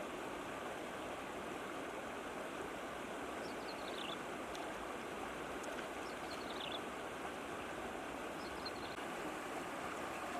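Steady rush of flowing water, with three brief, high, falling chirps over it, a few seconds apart.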